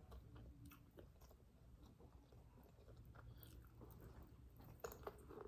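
Faint chewing and biting of food, with small wet mouth clicks and smacks.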